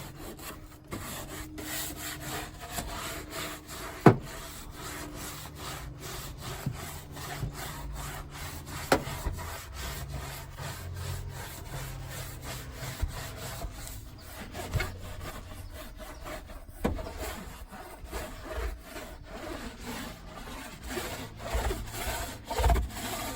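Stiff scrub brush scraping back and forth over the van's cargo floor in quick repeated strokes, with a few sharper knocks now and then.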